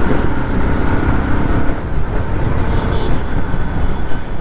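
Bajaj Pulsar motorcycle being ridden at a steady pace: engine and road noise with a heavy, even rumble on the microphone.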